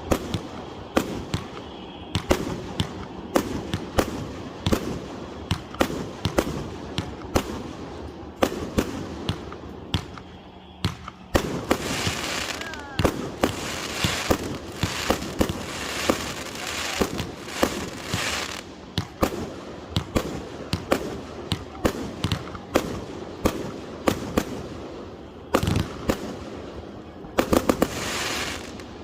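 Consumer fireworks cake firing a rapid string of shots and aerial bursts, several a second, with a long stretch of crackling in the middle and another near the end.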